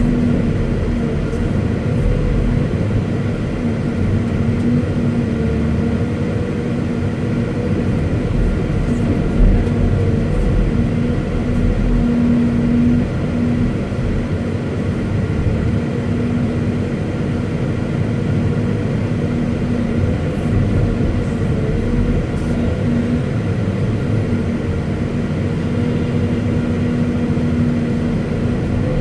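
Caterpillar 329E hydraulic excavator's diesel engine running steadily, with a constant droning hum whose pitch barely changes.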